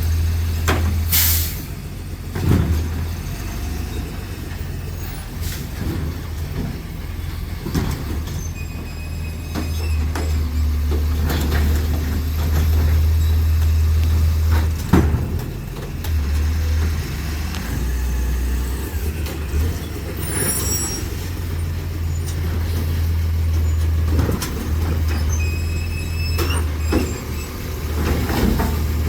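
Autocar ACX garbage truck with a side-loader running steadily, with a short sharp air-brake hiss about a second in, scattered knocks and clatter, and a few brief high tones.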